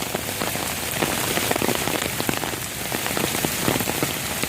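Steady rain falling, with many individual drops striking nearby surfaces.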